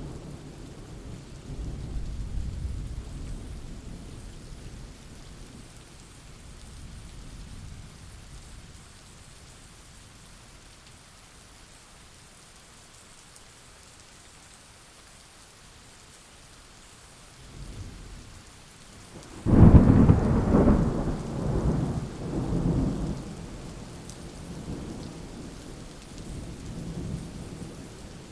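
Steady rain with thunder: a low rumble fades out over the first few seconds, then about twenty seconds in a loud thunderclap breaks suddenly and rolls on in rumbles for a few seconds before dying away under the rain.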